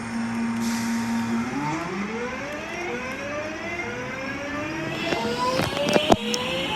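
Electric multiple-unit train's traction motors whining as it pulls away: a steady hum gives way about a second and a half in to several tones climbing together as it accelerates. A few sharp knocks come near the end.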